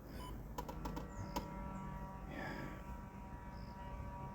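Faint outdoor background: a steady low hum with scattered short high chirps and a few light clicks.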